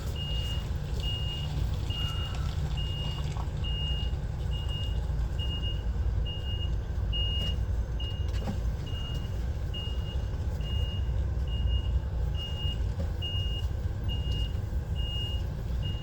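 Lorry reversing alarm beeping about once a second, a single high tone, over the steady low running of the truck's diesel engine.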